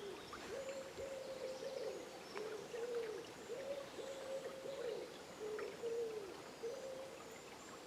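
A bird giving a long series of low hooting calls, roughly once or twice a second, many of them slurring downward at the end, with faint high chirps of other birds behind.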